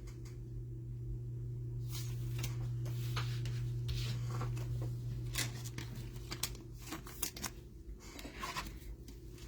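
Trading cards and their packaging being handled: a run of quick rustles and clicks, over a steady low hum that fades out about seven seconds in.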